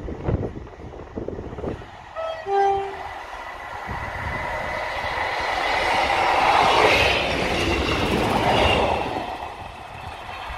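Class 158 diesel multiple unit sounding a short horn call, a couple of quick higher notes dropping to a lower one, then passing close by, its engine and wheels on the rails rising to a peak and easing as it draws away. Wind gusts buffet the microphone in the first couple of seconds.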